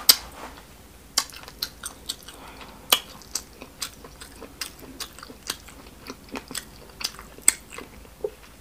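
Close-miked chewing and lip-smacking of a person eating smoked catfish stew by hand: a string of sharp, wet mouth clicks and smacks at an uneven pace, a few of them louder than the rest.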